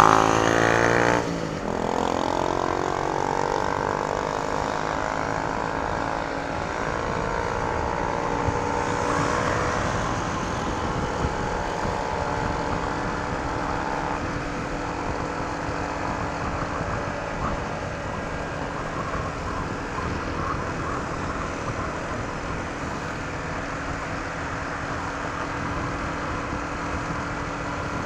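Honda ADV 160 scooter's single-cylinder engine through its stock exhaust, pulling up in pitch as it gathers speed and then running steadily at cruising speed, with wind and road noise. A louder sound cuts off suddenly about a second in.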